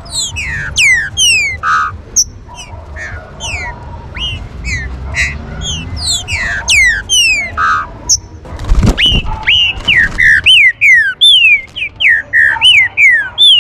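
Green-winged saltator (trinca-ferro) singing: a fast run of clear whistled notes, each sliding downward, repeated over and over. A single dull thump about nine seconds in.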